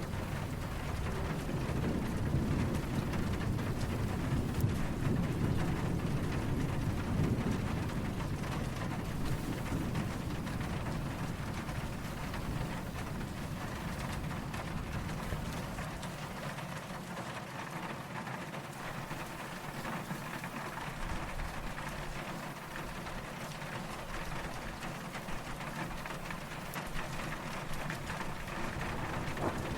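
Steady rain falling, with a low rolling rumble of distant thunder through the first half that fades away about halfway through.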